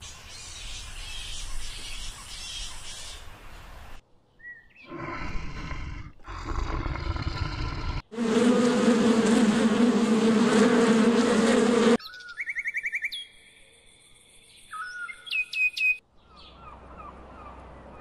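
A run of short, separate animal sound clips. The loudest, in the middle, is a swarm of honeybees on a hive frame buzzing in a steady low hum. After it come short, high bird chirps and whistles.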